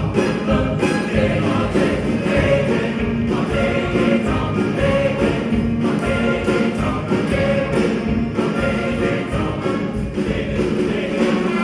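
School choir singing a Christmas song with accompaniment and a steady beat.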